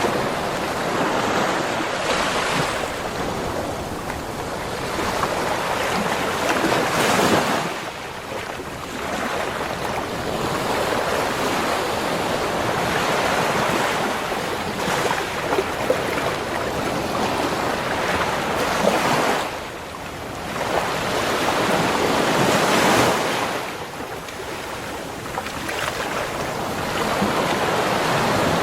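Ocean waves breaking and washing up the shore. The surf rises and falls in swells every few seconds, and some wind can be heard on the microphone.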